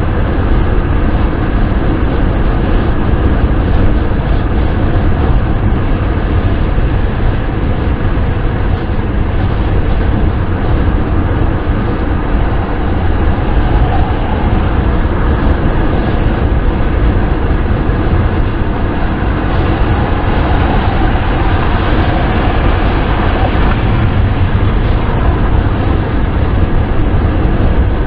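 Steady wind and road noise of a car driving at speed, a deep even rumble with a rushing hiss over it.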